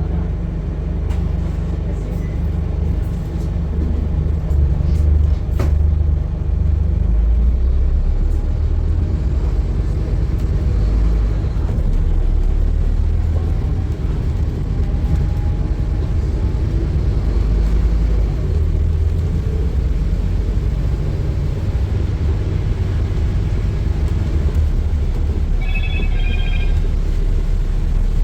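Scania N230UD double-decker bus's five-cylinder diesel engine running with a steady low drone, growing a little louder a few seconds in as it pulls. Near the end a brief high chime sounds.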